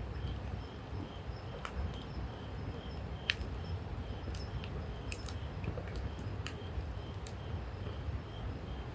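Wood campfire burning with scattered sharp crackles and pops over a low, steady rumble. A faint high chirp repeats about twice a second in the background.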